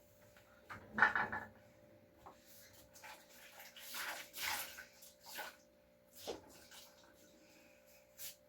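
Scattered handling sounds from cleaning a refrigerator: a knock about a second in, then a rustling swish and a few light clicks, over a faint steady hum.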